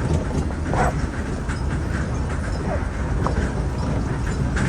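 A herd of cattle on the move, hooves knocking irregularly on the ground, over a steady low rumble.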